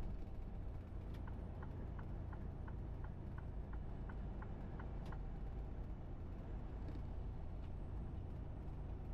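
Low, steady rumble of a truck, with a run of light, evenly spaced ticks, about three a second, lasting about four seconds.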